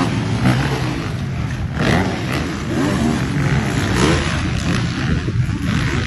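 Several dirt bike engines racing, their pitch rising and falling again and again as the riders accelerate and shift.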